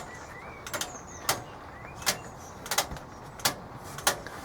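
Hoover Logic 1300 washing machine's programmer clicking at a steady pace, about one sharp click every 0.7 seconds, as it steps through the programme stages.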